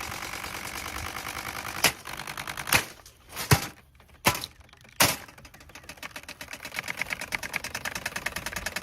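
A running Holmes box fan rattling rapidly, struck hard five times in a row about two to five seconds in; the rattle drops away during the blows, then builds back up.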